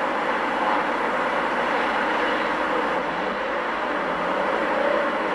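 Steady vehicle noise, an even rushing sound with no distinct events.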